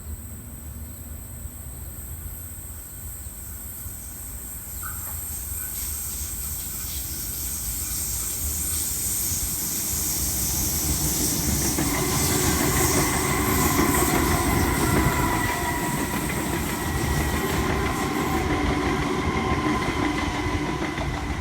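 Sydney Trains M-set (Millennium) electric train racing past on the express track without stopping, growing louder as it approaches and staying loud as it goes by. A steady whine rises over its running noise about halfway through.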